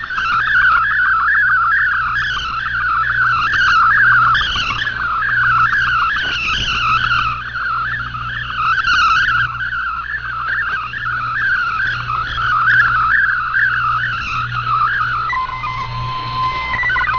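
Shortwave digital-mode data signal from a radio receiver: a continuous warbling of rapidly shifting tones. About 15 seconds in, the warble stops and steady tones take over, over a constant low hum.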